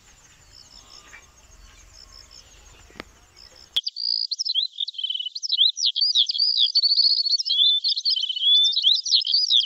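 Faint outdoor background with insects chirping and a single sharp click about three seconds in. Then, from about four seconds, a clean, much louder recorded track of birds chirping and twittering starts suddenly, quick high chirps with short rising and falling whistles.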